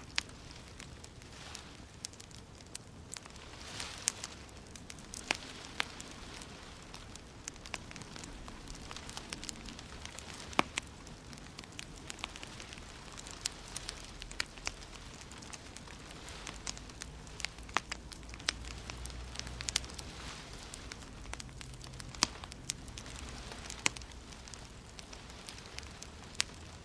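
Wood fire in a fireplace crackling, with irregular sharp pops over a steady soft hiss.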